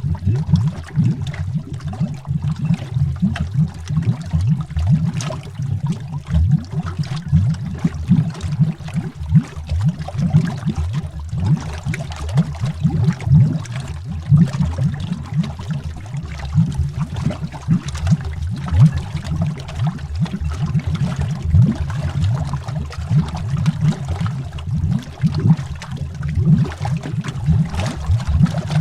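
Air bubbles rising through water, heard underwater as a dense, continuous deep bubbling and gurgling, made of countless small pops with no pause.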